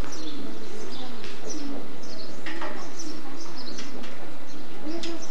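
Birds chirping repeatedly, short high calls coming every second or so.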